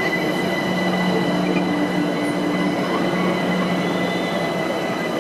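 A train running steadily, a loud even rumble with a constant low hum and a steady high whine.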